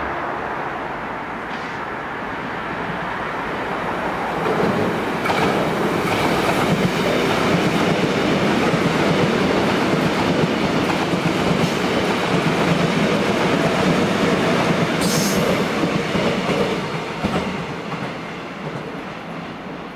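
Korail electric commuter train passing close by, wheels rumbling and clacking over the rails. The noise builds about four seconds in and fades near the end, with a brief high wheel squeal about three-quarters of the way through.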